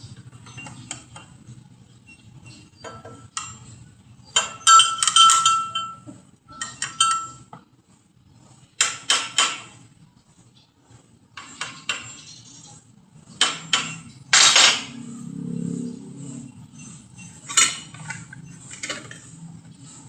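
Metal pieces and tools clanking and clinking in irregular knocks, some of them ringing briefly.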